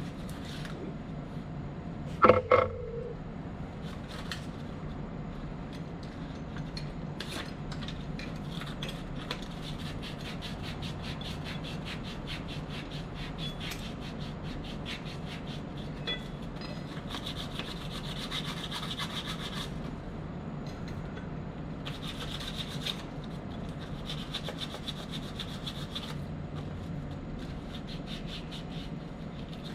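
Rapid, repeated rubbing strokes of hand abrasive work over a steady low hum, with a sharp knock about two seconds in.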